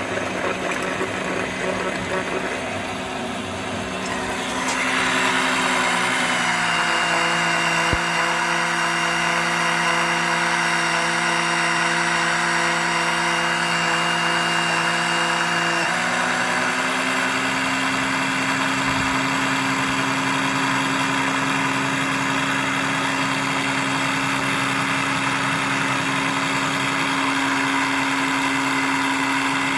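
A motor running steadily through oil extraction by the dipstick tube. It gets louder about five seconds in, drops in pitch around six seconds and comes back up around sixteen seconds.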